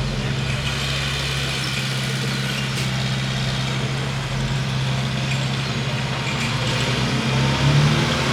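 Bulldozer's diesel engine running steadily, briefly louder and higher near the end.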